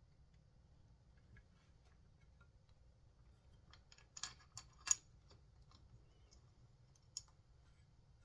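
Small clicks and taps from handling the small parts of a chainsaw's recoil starter: a quick cluster of clicks about halfway through, the sharpest among them, and one more click near the end.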